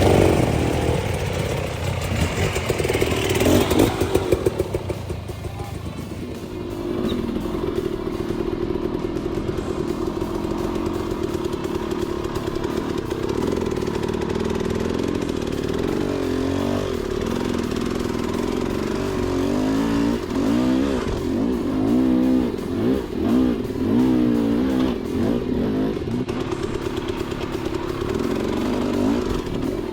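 Dirt bike engine running as the bike is ridden over rough trail. It holds a steady note for a stretch, then the revs rise and fall again and again through the second half.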